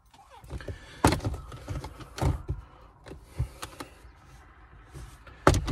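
Plastic trim panel around the shifter of a 2022 Honda Civic being pried loose with a trim panel puller: scattered clicks and scrapes of plastic, with a sharp pop near the end as a clip lets go.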